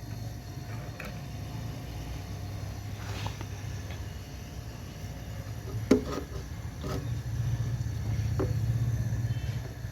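Non-inverter compressor of a Panasonic NR-BQ211NS refrigerator running with a steady low hum, getting louder for about the last three seconds, with a few sharp clicks and taps around the middle. The compressor is running normally, drawing a steady current and pumping refrigerant.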